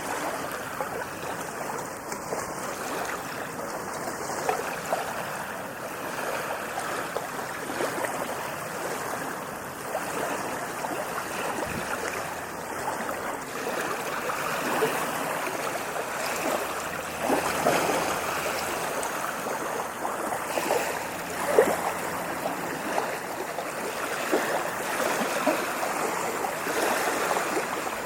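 Ocean surf breaking and washing up a beach: continuous rushing water with a few louder surges in the second half.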